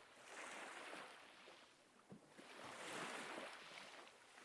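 Ocean waves washing in and receding, faint, swelling twice.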